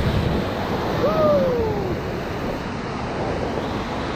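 Whitewater rapids rushing loudly around a raft, with one person's falling whoop about a second in.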